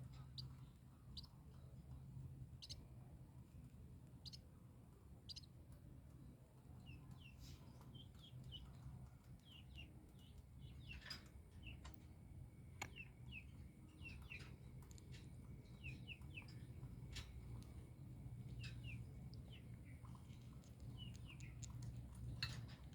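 Baby birds cheeping faintly: many short, high chirps, each a quick falling note, becoming more frequent a few seconds in, over a low steady hum.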